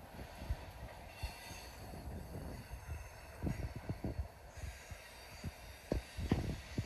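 Covered hopper cars of a slow freight train rolling past, with a steady low rumble and irregular low thumps. A faint high wheel squeal runs from about one second in until about halfway.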